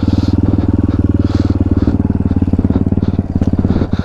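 Dirt bike engine running at a steady low speed, its firing pulses even and rhythmic.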